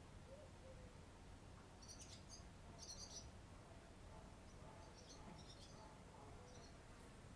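Faint chirping of a small bird: short high calls in little clusters, beginning about two seconds in and repeating every second or so, over a low steady background noise.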